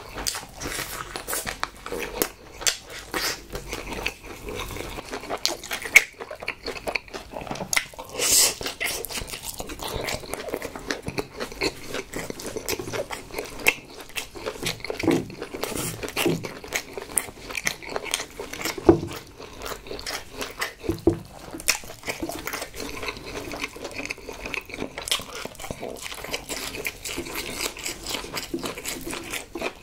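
Close-miked chewing and biting of jokbal, chewy braised pig's trotter, with wet mouth sounds and many short sharp smacks and clicks.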